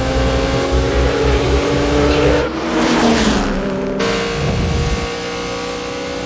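Car engines running at high revs with tyre and road noise, as in a movie street-race soundtrack. About two and a half seconds in, the sound changes briefly for a second and a half before the steady engine tones return.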